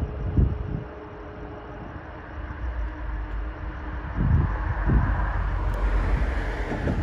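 Distant diesel locomotive hauling a long coal train on approach: a steady engine drone with a wash of wheel and rail noise that grows louder about halfway through. Wind buffets the microphone in low gusts.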